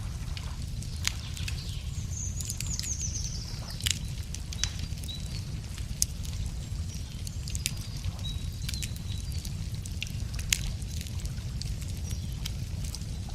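Wood campfire crackling, with sharp pops every second or two over a steady low rumble. A small bird sings a brief descending trill about two seconds in, with a few short chirps later.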